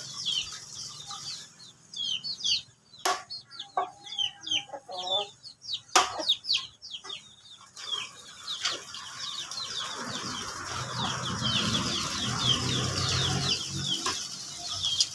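Birds chirping continuously, many short falling chirps in quick succession. Two sharp clicks come in the first half, and a steady rushing noise rises in the last few seconds.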